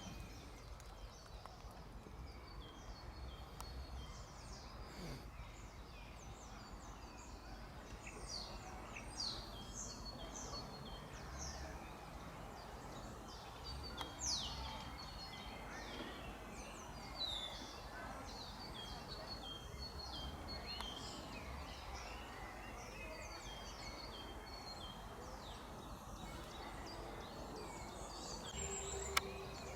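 Small songbirds chirping and calling: many short, high notes that sweep downward, some close together in quick runs, over a steady outdoor hiss. A single sharp click comes near the end.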